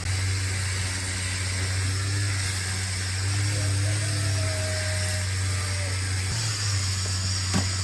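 A small motor running with a steady low hum and a hiss over it.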